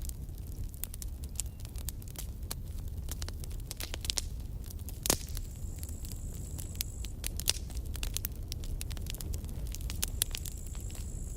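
Campfire crackling: a dense run of irregular pops and snaps over a low steady rumble, with one louder pop about five seconds in. A faint thin high whistle comes in twice.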